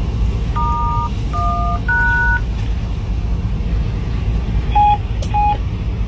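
Three touch-tone (DTMF) beeps in a row, each two pitches sounding together for about half a second, keyed over the steady low rumble of a freight locomotive's cab. Two shorter, single-pitched beeps follow near the end.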